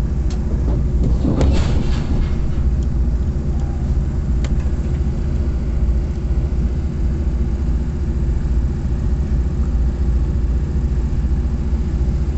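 Passenger train running, heard from inside the carriage: a loud, steady low rumble, with a brief louder rattling surge about a second and a half in and a couple of short sharp clicks.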